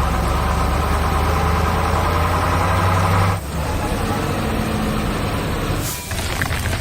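Heavy-machinery engine idling, a cartoon sound effect for construction vehicles, cutting to a different engine sound about halfway through and shifting again briefly near the end.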